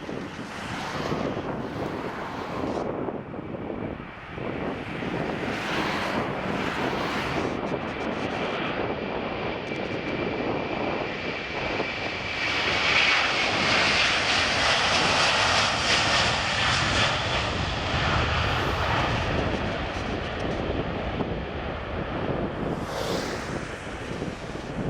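Airbus A330-200 jet airliner's engines at takeoff power: a steady roar that grows to its loudest about halfway through, with a faint high whine falling slightly in pitch as it passes, then easing off.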